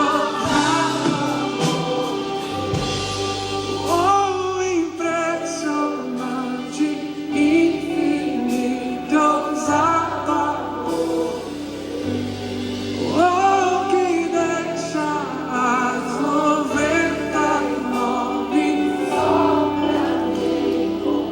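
Gospel worship song: a band with bass notes changing every few seconds under choir-like sung vocals, the held notes wavering with vibrato.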